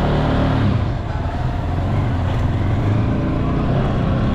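Motorcycle engine running, with a brief dip in level about a second in.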